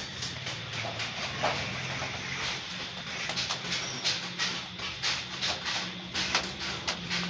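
Sheet metal being worked: irregular metallic taps and clatter, many short knocks a second, over a steady low hum.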